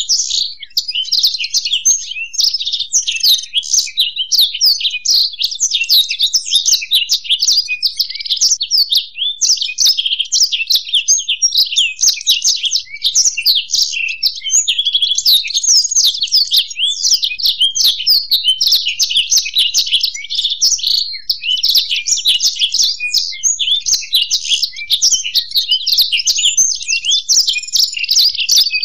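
Black-throated canary and European goldfinch singing together: a continuous, rapid, high twittering song with no pauses.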